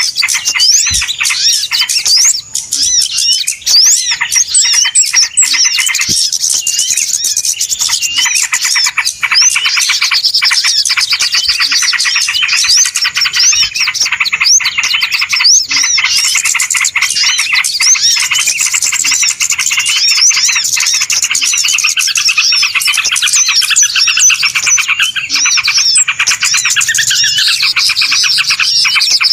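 Dense chorus of many small birds chirping and twittering over one another without a break, a 'ribut' bird-lure recording used to call small birds in. The chorus thickens about a third of the way in.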